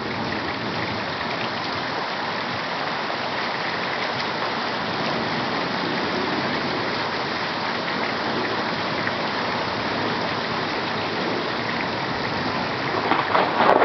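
Heavy rain pouring steadily in a thunderstorm. In the last second a thunderclap begins, loud and crackling.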